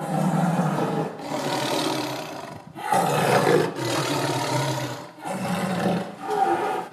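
Big cat growling: a run of about six long, loud growls, each about a second, with brief breaks between them.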